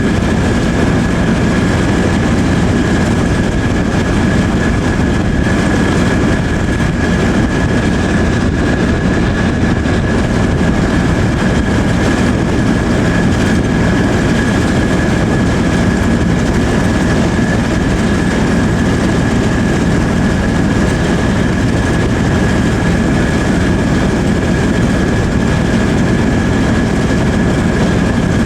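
Heritage railway carriage running along the line behind a diesel locomotive: a steady rumble of wheels and engine with a constant high whine.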